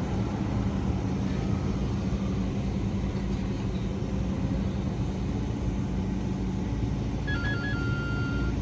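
Heavy diesel earthmoving machinery running steadily, a low even engine drone. About seven seconds in, a short electronic melody of stepped high tones starts over it.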